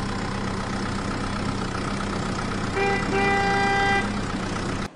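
A vehicle horn tooting twice, a short toot and then a longer one about three seconds in, over a steady low engine-like hum that cuts off suddenly near the end.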